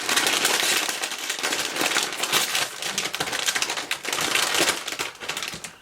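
Plastic crisp bag crinkling as it is handled, a dense, continuous crackle.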